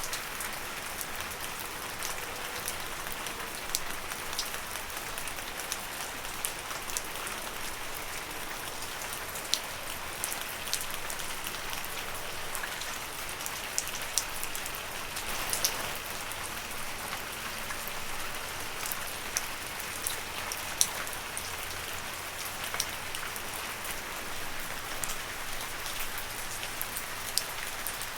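Steady gentle rain falling on leaves, a soft hiss with many separate drops ticking close by at irregular intervals.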